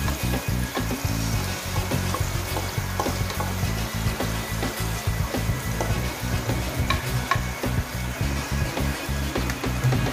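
Fish frying in a wok, sizzling and crackling with many short pops as seasoning sauce is poured in from a bowl and stirred with a wooden spatula, over a steady low rumble.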